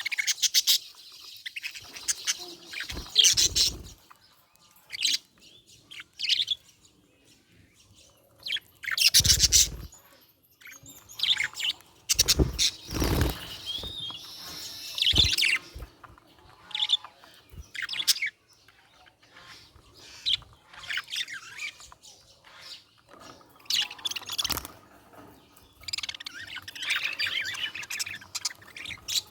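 Budgerigar chirping and chattering in irregular bursts of varied, quick notes, with several louder bursts among them.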